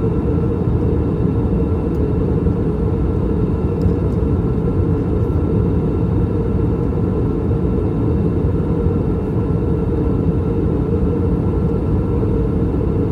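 Steady in-flight cabin noise of an Airbus A321, from its IAE V2533-A5 turbofan engines and the airflow over the fuselage: a constant low rumble with a faint high hum.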